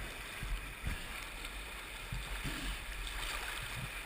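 Steady rush of river water around a raft, with a low rumble underneath and a few soft thumps.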